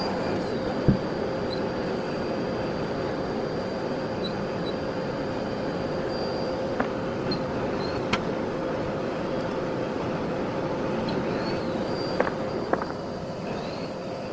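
Miele Blizzard CX1 bagless cylinder vacuum cleaner running steadily with a high whine, and a few light clicks and knocks as it is worked over the floor.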